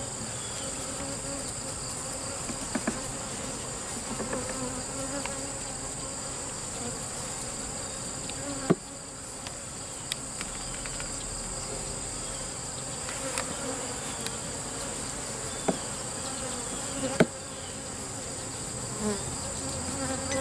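Honey bee colony buzzing over an opened hive, a steady dense drone from many bees stirred up by the inspection. A few sharp clicks and knocks stand out, about a third of the way in and again several times in the second half.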